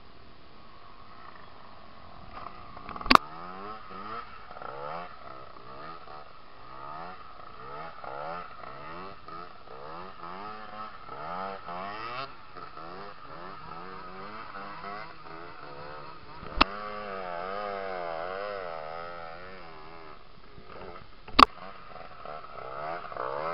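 Aprilia RS motorcycle engine revving up and down in short, repeated throttle blips as the bike is held balanced on its back wheel in a wheelie. Three sharp knocks, the loudest sounds, come about three seconds in, midway and near the end.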